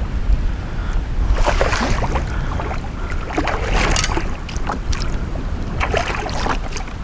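Wind buffeting the microphone on a kayak at sea, a steady low rumble, with three louder bursts of hissing, splashy noise on top.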